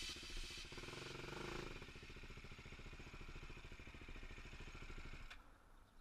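KTM 450 SX-F four-stroke single-cylinder dirt bike engine idling with an even low beat, then shut off about five seconds in.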